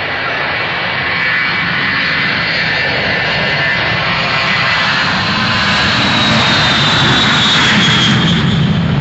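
Aircraft flying past, its engine noise growing louder, with a high whine that falls in pitch as it passes.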